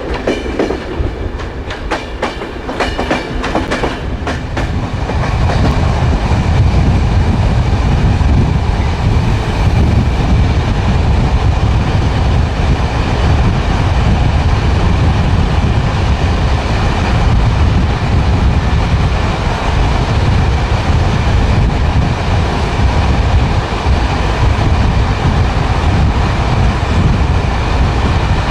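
Train wheels running on the rails: a quick run of clicks for the first few seconds, then a loud, steady low rumble from about five seconds in.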